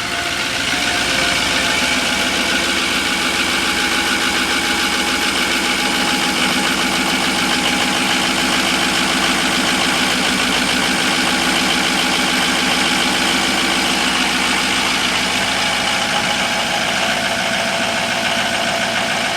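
Ford E350 van's 6.0 Power Stroke V8 turbo diesel idling steadily just after a cold start. It comes up a little in loudness about a second in, then holds even.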